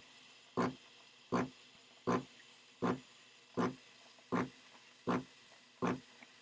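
Breville Barista Touch steam wand frothing milk in pulses: a short snort-like burst of steam about every three-quarters of a second, eight or nine in a row, evenly spaced.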